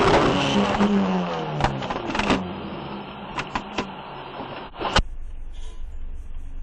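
Road traffic heard from a dashcam: a vehicle's engine and tyre noise falling in pitch, a few sharp knocks, and a sharp bang about five seconds in, after which only quieter road noise remains.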